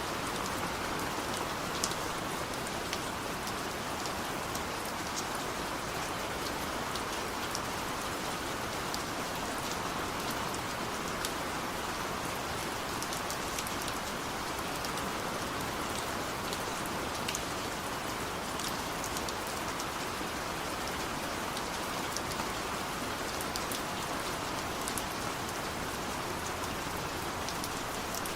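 Steady heavy rain: an even hiss with many sharp, separate drop splashes through it.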